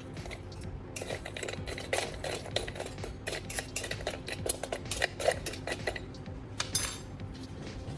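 Lumps of charcoal clinking and clattering against each other and the metal chamber as they are placed in, a quick, irregular run of sharp clicks starting about a second in and stopping near the end.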